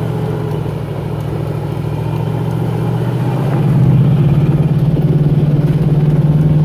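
Off-road vehicle's engine running under load with a steady low pulsing note, getting louder about four seconds in as it is revved to climb a rock ledge.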